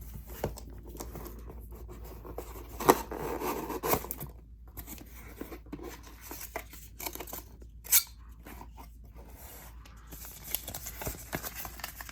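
A cardboard box and its packaging being opened by hand: tearing, scraping and crinkling of tape, cardboard and paper, with sharper snaps about three and eight seconds in.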